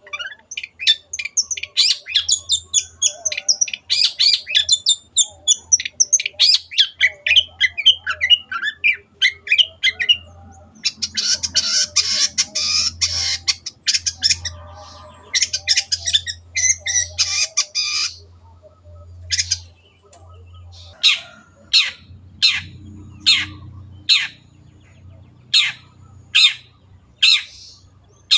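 Long-tailed shrike (cendet) singing: a fast, varied chattering song, then a harsher dense chatter, then a string of single sharp downward-slurred calls about one a second.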